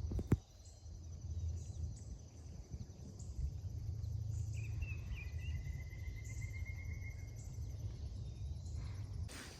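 Night insects, crickets among them, chirping steadily in high pulsing tones over a low rumble, with a short high trill about halfway through and a sharp click at the very start.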